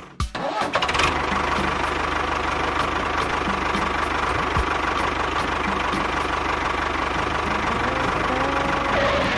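Mini tractor's engine running steadily, a fast even low chugging with a steady whine over it, cutting in just after a brief drop at the start.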